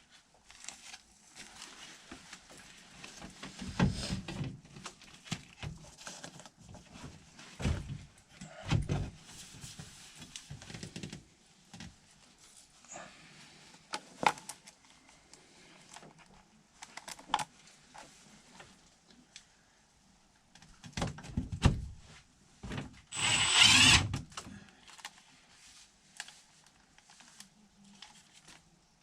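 Power drill-driver run in short bursts, mixed with knocks and clatter of handling tools and parts, the loudest burst about three-quarters of the way through.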